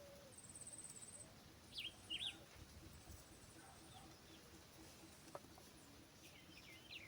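Faint wild birds calling: a thin high trill in the first second, then two sharp chirps about two seconds in, and a few softer chirps later.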